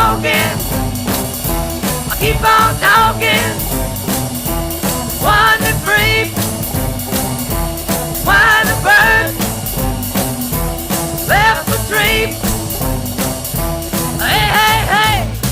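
Band music with a steady beat, playing an instrumental stretch of a rock song. A lead line plays short phrases that bend in pitch, roughly every three seconds.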